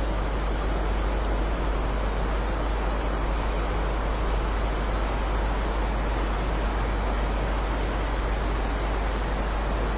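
Steady heavy rain: an even, unbroken hiss with no single drops standing out, over a constant deep rumble.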